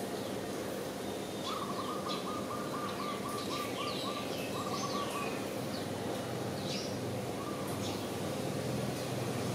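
Small birds chirping, with short downward-sweeping calls scattered through, and a quick run of about ten even notes about one and a half seconds in, over a steady low background rumble.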